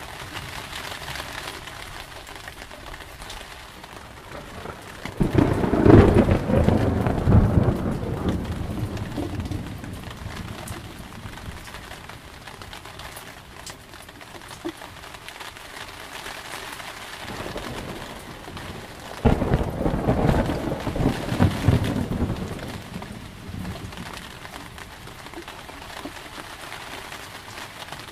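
Steady rain with two peals of thunder. Each breaks in suddenly and rumbles on for about four seconds before fading: the first about five seconds in, the second a little before twenty seconds.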